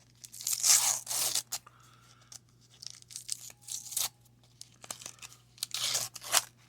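Wax-paper wrapper of a baseball card pack being torn open and crinkled by hand, in several rough bursts of tearing. The longest and loudest comes about a second in, with shorter ones around three to four seconds and near six seconds.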